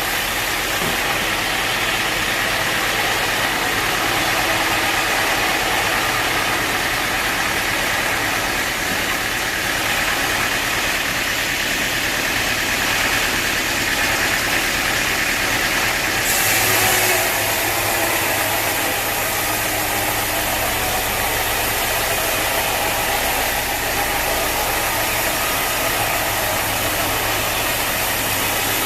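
Sawmill machinery running steadily with a constant engine-like drone and hiss. About 16 seconds in, the sound shifts: a brighter hiss and a low hum join in and hold.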